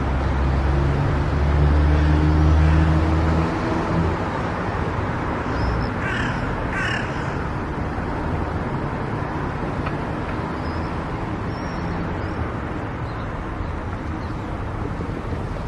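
Steady road noise and engine hum from a car driving, the low hum louder for the first few seconds. About six seconds in, a crow caws twice in quick succession.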